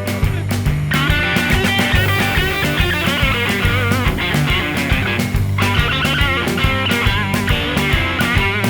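Blues band instrumental break: a lead guitar solo of bent, wavering notes over bass and drums keeping a steady beat. The lead drops out about four seconds in and comes back a second and a half later.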